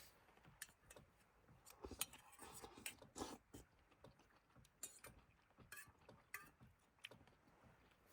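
Faint, scattered clicks and light knocks of small hard objects being handled, the loudest a couple of seconds in.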